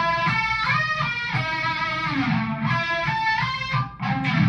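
Distorted electric guitar lead played through a Line 6 Spider IV amp with overdrive, a boost and a light chorus: sustained single notes with lots of sustain, some bent or slid up in pitch. The notes break off briefly about four seconds in before the next one starts.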